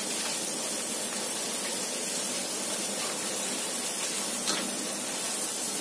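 Ground garlic and candlenut spice paste sizzling steadily in hot oil in a wok.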